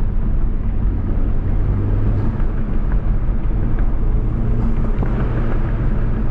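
Honda Civic Type R's turbocharged 2.0-litre four-cylinder engine running steadily under way, with road noise; the engine note changes about two seconds in.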